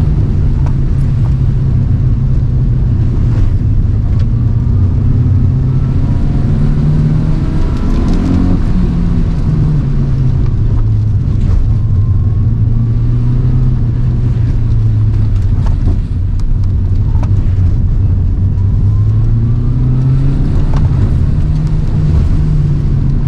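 Toyota AE111 Trueno's four-cylinder engine under hard driving, heard from inside the car: the revs climb and fall with gear changes and corners, with the road and rain noise underneath.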